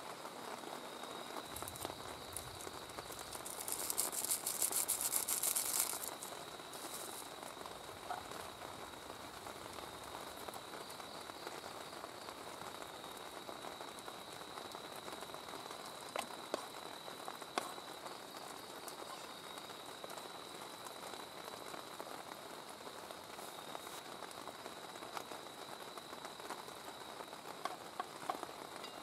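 Steady rain falling around the camp, with a louder rustling burst about four seconds in that lasts some two seconds. A few light clicks are heard later on, and a faint steady high tone runs underneath.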